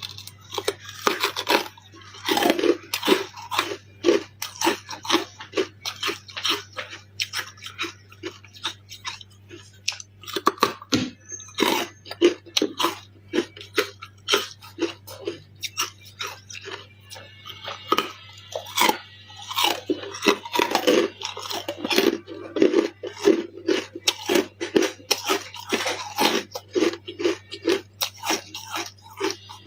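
Close-up biting and chewing of carbonated ice, crunching again and again in quick runs with a few short pauses, over a faint steady low hum.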